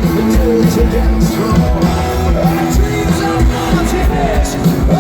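Live rock music: a band playing with guitar and a singer's voice.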